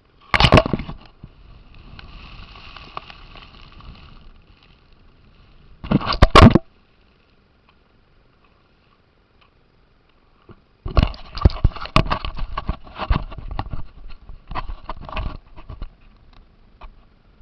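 Small electric RC car motor and gears whining in bursts of throttle, with clattering clicks and knocks from the car. There is a short burst at the start, another about six seconds in, and a longer run of about five seconds in the second half.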